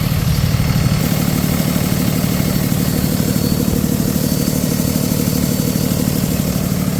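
Cummins 6.7 diesel engine of a Freightliner M2 box truck idling steadily, with a faint high-pitched whine over it. The owner still hears this whistle after intake manifold gaskets were replaced and takes it for an air leak.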